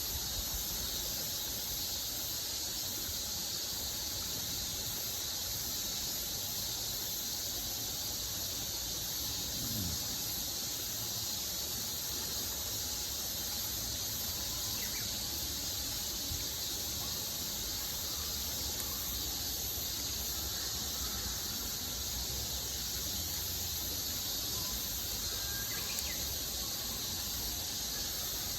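A steady, high-pitched insect chorus that keeps on without a break, with a couple of faint ticks near the end.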